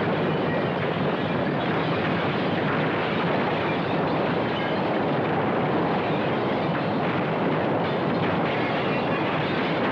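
Earthquake sound effect: a continuous, unchanging noise without a break, as the ground shakes and the city collapses.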